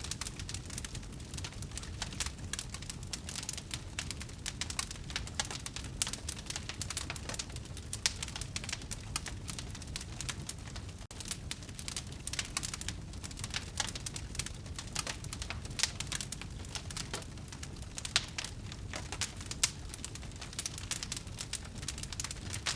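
Wood fire burning in a fireplace, crackling steadily with many small pops and snaps over a low rumble of flames, with a few louder snaps in the second half.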